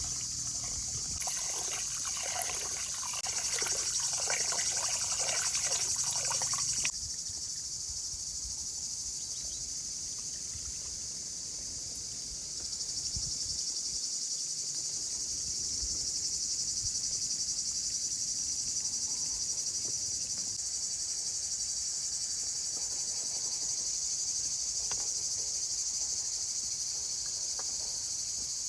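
Steady, high chorus of insects. For the first several seconds a louder, rougher noise sits over it and cuts off suddenly about seven seconds in.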